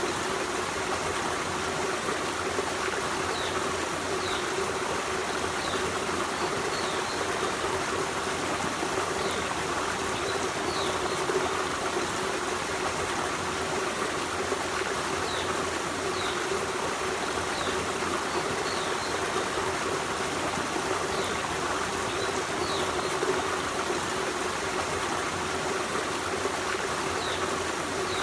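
Forest stream running water, a steady rush and trickle without a break, with faint short high chirps every few seconds.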